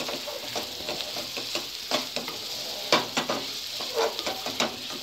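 Chicken kebab pieces in thick Manchurian sauce sizzling over a high flame in a kadai, with a spatula scraping and knocking against the pan as they are stirred. The sizzle is steady under irregular scrapes, with a few louder knocks about two, three and four seconds in.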